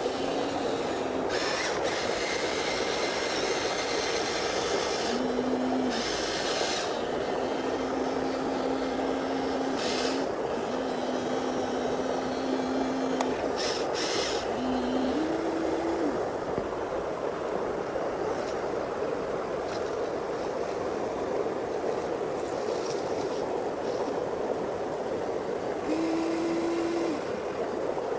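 Small electric motor of a radio-controlled construction model whining in short spells of one to three seconds, its pitch stepping up now and then, over a steady rush of flowing stream water.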